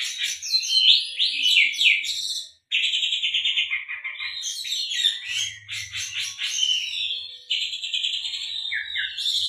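Oriental magpie-robin (kacer) singing a continuous, rapid song full of fast trills and sweeping notes, laced with mimicked canary phrases, with a brief pause about two and a half seconds in.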